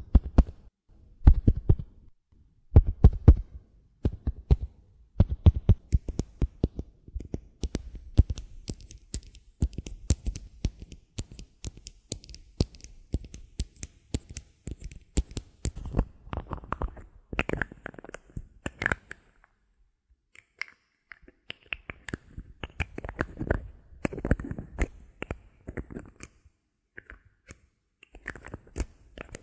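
Close-miked ASMR trigger sounds in quick succession. Soft low thumps come first, then a long run of crisp tapping and scratching clicks. The sound pauses briefly about twenty seconds in before more tapping and rustling.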